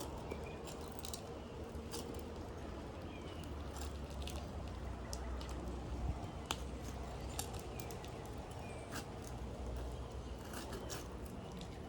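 Scattered, irregular clicks and scrapes of a putty knife prying asphalt shingle seal strips loose, over a steady low rumble.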